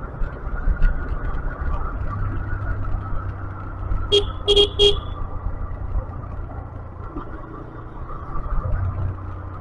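Motorcycle engine running steadily while riding, with three quick horn beeps about four seconds in.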